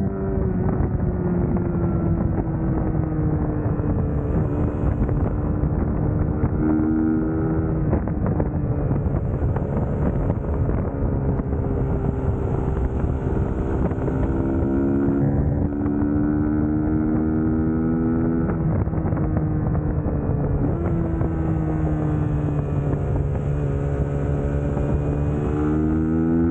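Suzuki GSX-S150's single-cylinder engine running on the move, its pitch slowly sagging and several times rising again as the throttle and gears change, with wind noise over the microphone.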